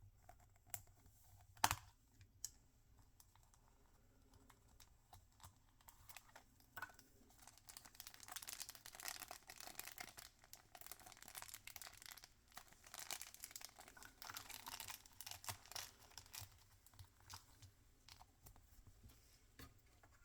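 Mystery toy packaging being opened by hand: a sharp click a little under two seconds in, scattered small clicks and taps, then a long stretch of packaging crinkling and tearing through the middle.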